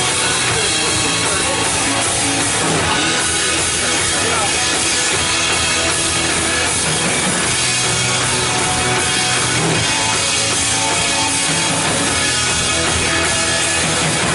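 Worship band playing an instrumental passage with a drum kit, steady and loud.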